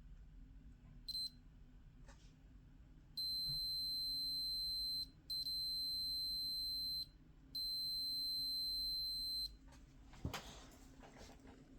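Digital multimeter's continuity beeper: one short beep about a second in, then three long, steady high beeps of about two seconds each; each beep means a low-resistance path between the probes. A single knock with a brief rustle near the end.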